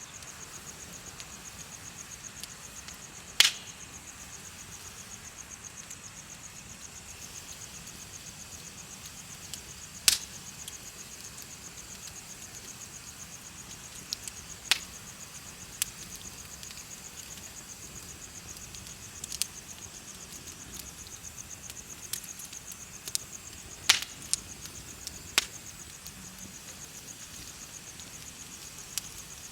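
Bonfire crackling, with about a dozen sharp pops of burning wood scattered through, over a steady, rapidly pulsing high chirping of insects.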